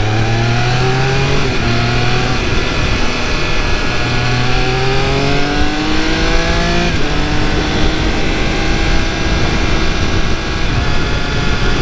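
Triumph Speed Triple 1200 RR's 1160 cc inline-three exhaust note under acceleration. The pitch rises as it pulls, drops back about a second and a half in, climbs again, then falls sharply about seven seconds in and holds steadier. A steady rush of wind noise runs underneath.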